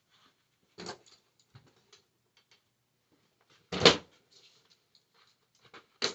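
Three short knocks from objects being handled, the loudest about four seconds in, with light clicks and taps between them.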